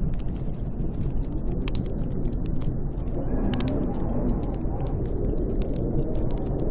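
Snowstorm wind blowing steadily, with a low wavering howl, over a constant scatter of small sharp clicks.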